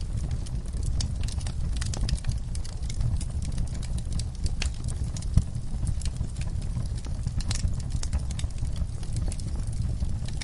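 Wood campfire crackling, with irregular pops and snaps and one louder pop about halfway through, over a steady low rumble.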